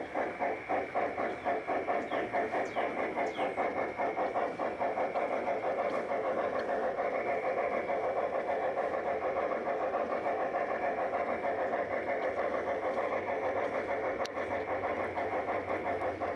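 A large-scale model steam locomotive's onboard sound system chuffing, at first about three beats a second, then quickening within a few seconds into a fast, steady beat as the train gathers speed.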